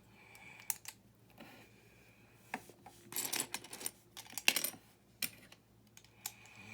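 Small plastic building-brick pieces clicking and rattling as they are handled, in scattered single clicks with two short bursts of clatter in the middle.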